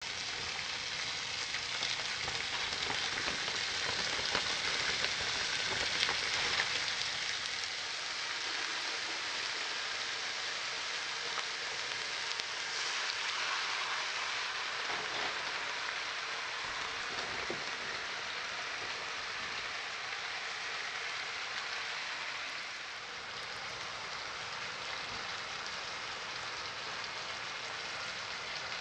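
Raw chicken wings sizzling steadily in hot oil in a frying pan as they brown, with a few faint crackles.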